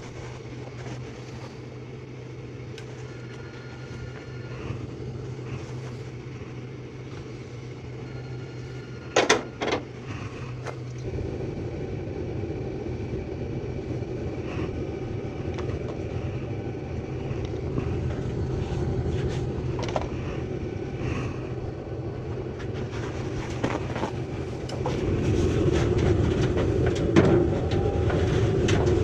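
Furnace blower fan running with a steady hum. Two sharp clicks come about nine seconds in, and from about eleven seconds a louder rushing noise joins in, growing louder again near the end.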